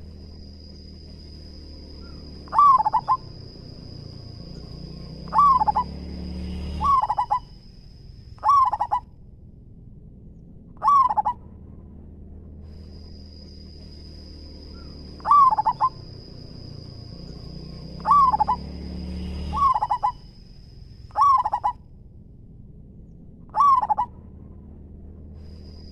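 Zebra dove (perkutut) cooing: about ten short bursts of rapid, stuttering coos, coming at uneven intervals. A thin steady high whine sounds behind them for long stretches.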